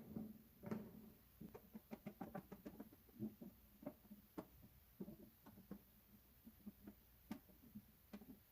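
Scissors snipping through the thin metal of a tin can: a string of faint, crisp clicks, irregular, about two to three a second.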